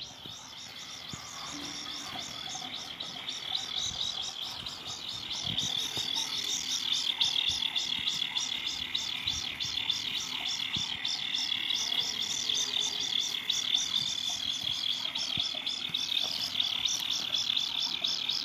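Baby kingfisher chick giving its begging call: a rapid, high pulsed call that sounds like an alarm, made in the throat. It grows louder over the first few seconds and then keeps going steadily while the chick waits for food.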